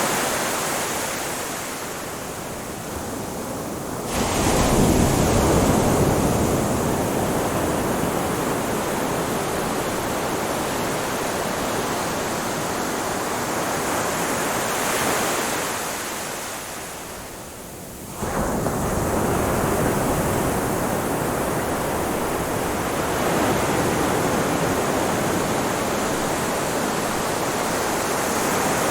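Ocean surf washing steadily, with a lull before a wave breaks about four seconds in and another lull before a wave breaks sharply about eighteen seconds in.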